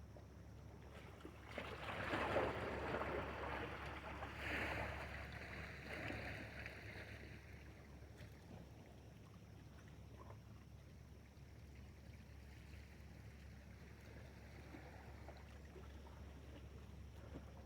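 Water splashing and sloshing in several surges over the first few seconds, then settling to a faint steady wash.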